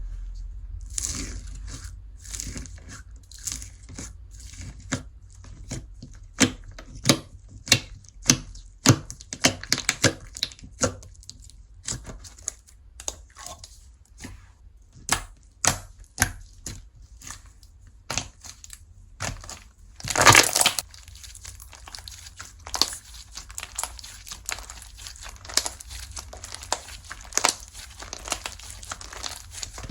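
Slime being squeezed, stretched and pressed by hand, giving many sharp sticky pops and crackles at an irregular pace, with a longer burst of crackling about twenty seconds in.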